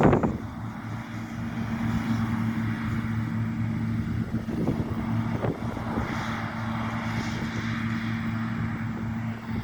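John Deere T670i combine harvester running steadily at working speed, a constant low engine drone with a mechanical hiss over it. A short knock sounds right at the start.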